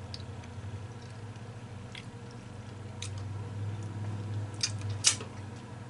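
Close-up chewing of a mouthful of seafood boil, with a few sharp wet mouth clicks and smacks, the loudest near the end, over a low steady hum.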